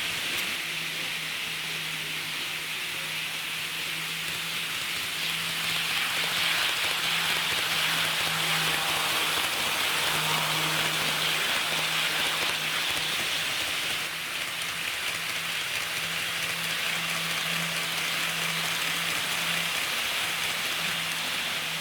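HO-gauge model diesel railcars running on the track: a steady rushing sound of wheels rolling on the rails, with a low, steady motor hum underneath.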